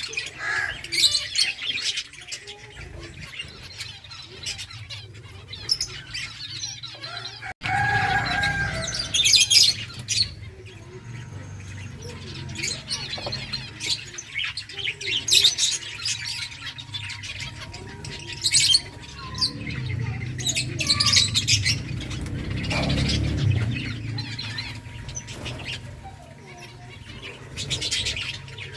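Colony of finches chirping, many short high calls overlapping, with wing flutters among them. A low steady hum runs underneath.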